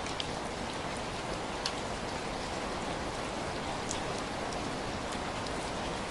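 Steady heavy rain falling, an even hiss with scattered sharp drop ticks on top.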